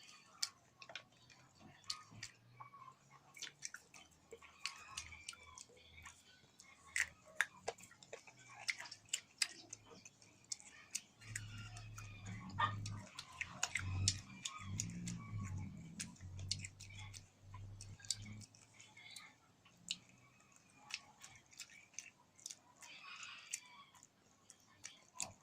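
A person chewing and eating, with many short mouth clicks and small crunches through the whole stretch. A low hum comes in about eleven seconds in and stops about seven seconds later.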